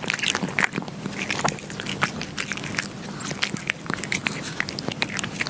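Kitten eating, a dense run of irregular crunching and chewing clicks.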